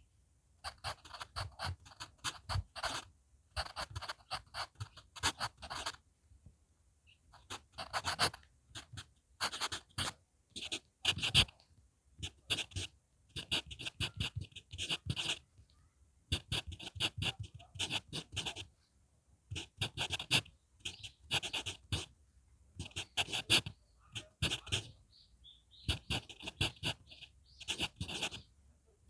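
HB pencil writing on paper: runs of short scratching strokes, broken by brief pauses between characters.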